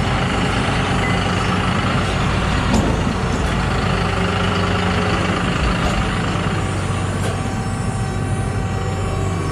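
Engine of a farm vehicle running steadily while sawdust is loaded into the stalls.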